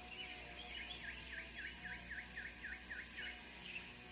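A small songbird singing faintly: a run of about ten quick downward-sliding whistled notes, roughly four a second.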